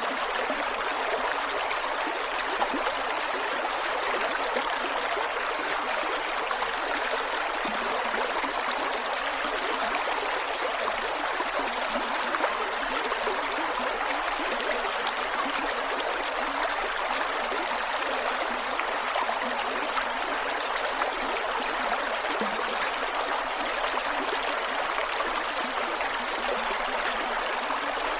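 Creek water flowing and gurgling over rocks, a steady, even rush with little low rumble.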